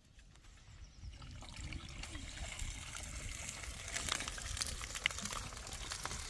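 Water trickling and splashing, getting louder about a second and a half in, with many small crackling clicks.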